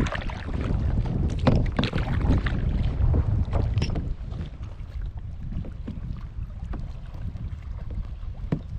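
Water splashing and sloshing around a paddleboard, with wind buffeting the microphone as a low rumble. The splashing is busier and louder for the first four seconds, then eases off.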